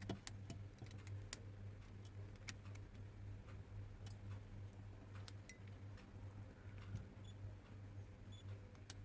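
Faint, scattered clicks of a hair dryer's small heater switch and test clips being pressed and handled, while its contacts are checked for a fault, over a steady low hum.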